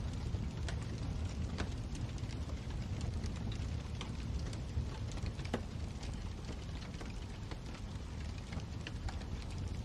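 Wood fire in a fireplace crackling: a steady low rumble of burning with frequent small, irregular pops and snaps.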